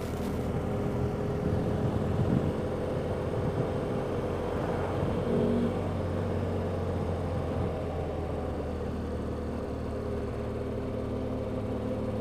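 Motorcycle engine running at a steady cruise while riding, with road noise under it.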